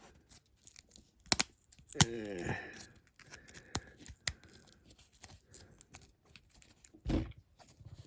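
Scattered small clicks and taps of small diecast model car parts and tools being handled on a work surface, with a low knock near the end. A short murmur falling in pitch about two seconds in.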